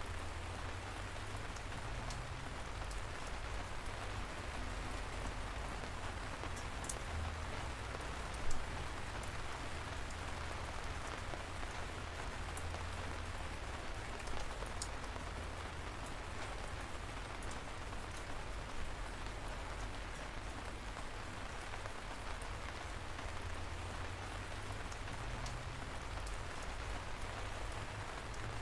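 Steady light rain falling, an even hiss with scattered individual drops ticking close by, one of them louder about eight seconds in.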